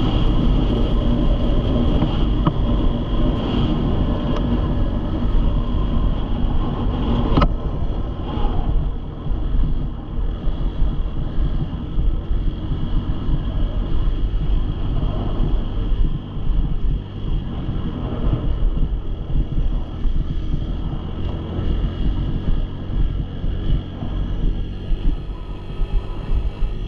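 Dirt bike engine running, with wind on the microphone. A sharp click about seven seconds in, after which the sound turns more muffled.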